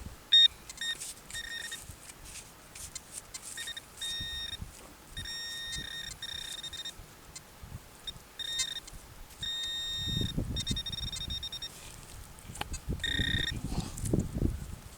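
Metal-detecting pinpointer beeping in on-and-off tones of one steady pitch, some short and some held for a second or more, as it is swept over the dug soil to locate the target. Low rustling of soil being handled twice in the second half.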